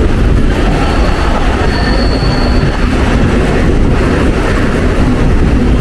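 Mumbai suburban local train running on the rails with a steady loud rumble, and a brief high wheel squeal about two seconds in, as it nears Churchgate, the end of the line.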